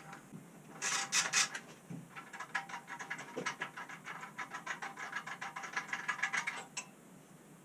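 Socket ratchet clicking as a motorcycle exhaust bolt is turned: a few louder clicks about a second in, then a fast, even run of clicks lasting about four and a half seconds that stops abruptly near the end.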